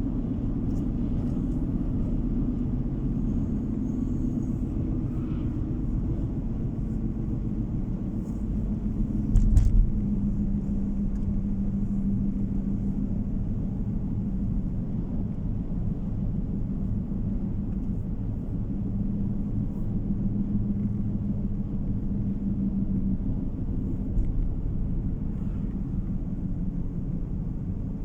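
A car driving along a road, heard from inside: steady low road and engine rumble with a faint hum. A single sharp thump comes about a third of the way in, and a lighter one near the end.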